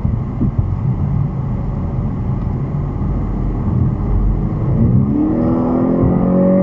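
Car engine and road noise heard from inside the cabin, a steady low rumble with tyre hiss. About five seconds in the engine revs up, its pitch rising and then holding high as the car accelerates.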